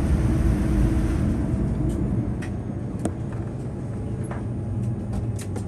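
Cabin noise in a Boeing 787-9: a steady low rumble and hum that eases off about two seconds in, followed by a quieter rumble with a few light clicks.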